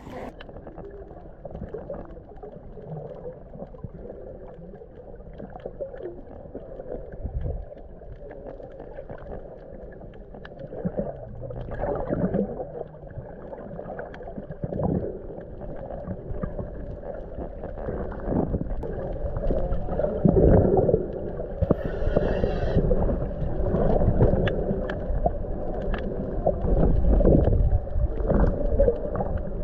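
Muffled water sloshing and gurgling, as picked up by a camera in a waterproof case while snorkelling, growing louder with stronger surges in the second half.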